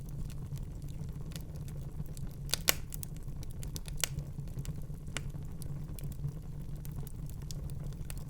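Wood fire crackling in a fireplace: a steady low rumble of flames with scattered sharp pops and snaps. The loudest pops come as a quick pair about two and a half seconds in, with another about four seconds in.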